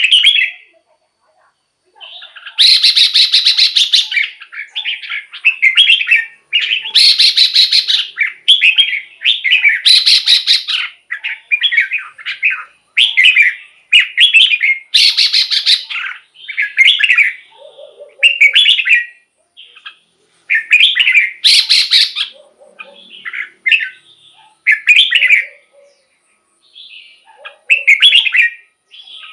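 Red-whiskered bulbul singing: short, fast, warbled phrases, one after another with brief pauses, some of them rough and rasping.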